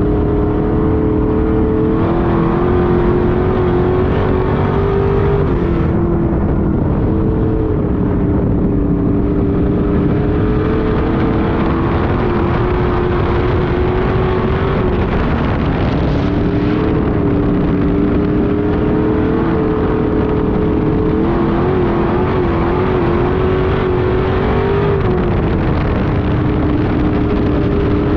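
Street stock race car engine running hard at high revs, holding a steady pitch that dips slightly and recovers about every ten seconds as the car lifts and gets back on the throttle.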